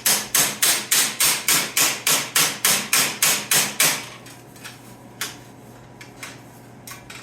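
Hammer striking sheet metal in quick, even blows, about four a second, rolling the metal over an edge. The blows stop about four seconds in, and a few single taps follow.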